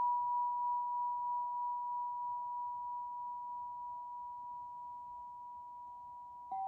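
A struck bell-like tone, pure and high, rings on and slowly fades. Near the end a new, lower note is struck.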